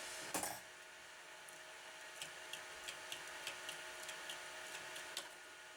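A powered-up Pentium 4 desktop computer giving a steady faint electrical hum and whine, with a click just after the start and then faint, irregular ticking a few times a second.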